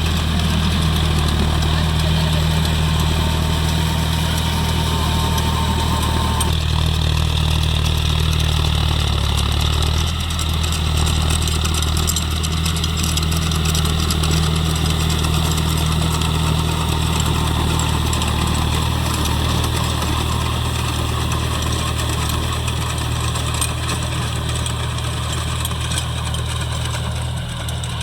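John Deere 5050D tractor's three-cylinder diesel engine running steadily, its note dipping briefly about ten seconds in.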